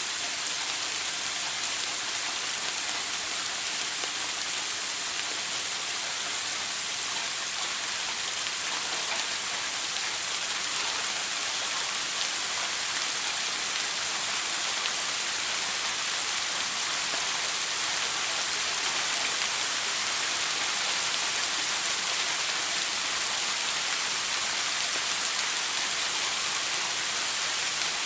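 Shower running: a steady, even hiss of water spray falling, unchanging throughout.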